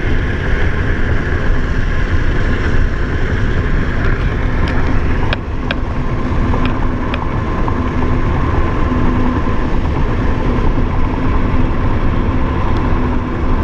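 Steady road and engine noise inside a moving car's cabin, with a few light clicks about five to seven seconds in.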